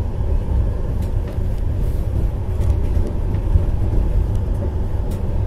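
Steady low rumble of a passenger train running on the rails, heard from inside the carriage, with faint scattered clicks from the wheels and track. A freight train of tank wagons passes on the next track.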